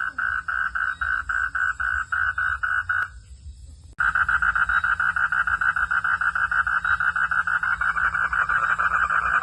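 Frogs calling at night: a rapid train of pulsed calls, about four a second. It breaks off suddenly about three seconds in, and after a second's gap comes back abruptly with a click, faster and denser.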